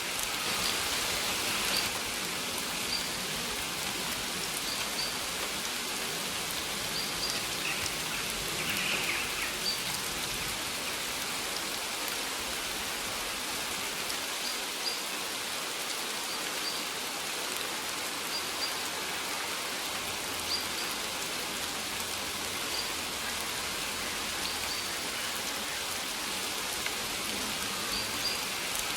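Steady rain falling, an even hiss of drops, with short faint high bird chirps recurring every second or two.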